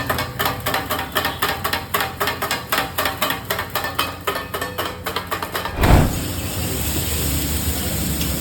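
Kothu parotta being chopped on a hot iron tawa with two metal blades: rhythmic metal-on-metal clanging, about five strikes a second. Almost six seconds in it stops with a thump and gives way to a steady noisy rush with a low hum.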